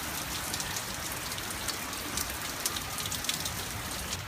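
Steady rain falling: a dense hiss made of many small drop hits.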